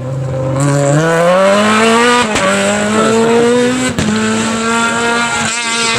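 Renault Clio R3 rally car's naturally aspirated four-cylinder engine revving hard, its pitch climbing over the first two seconds and then held high, with sharp clicks about two and four seconds in.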